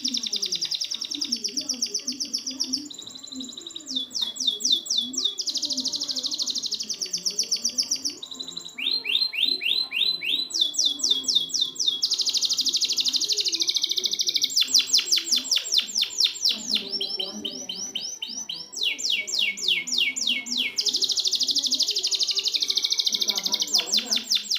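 Domestic canary song used as a training recording for canaries that won't sing: a continuous string of very fast trills, each phrase held a second or two before switching to a new pitch, some sweeping downward.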